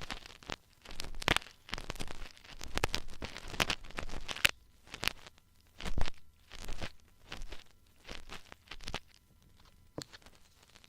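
Ear-cleaning tools scraping and rubbing close against a microphone ear: irregular bursts of scratching and crackling with short pauses, one louder knock about six seconds in, and softer strokes near the end.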